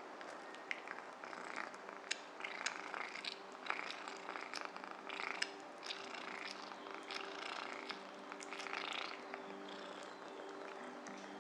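Cat chewing pieces of beef: irregular wet clicks, crunches and lip smacks, several a second, with a faint low hum of held tones underneath.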